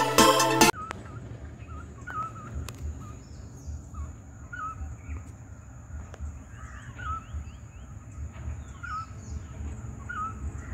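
A bird repeating a short hooked call every second or two, over a steady high-pitched whine and a low rumble. For the first half-second electronic music plays, then cuts off suddenly.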